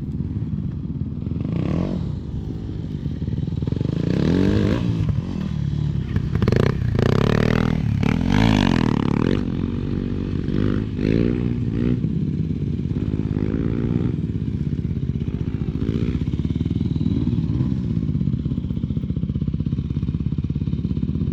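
Vehicle engine revving up and down over and over under load. It is loudest between about six and nine seconds in, with a few knocks, then settles into smaller rises and falls.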